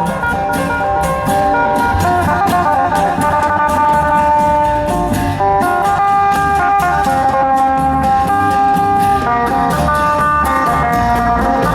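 Isan serng dance music played by a procession band: long held melody notes over plucked strings and a steady, regular drum beat.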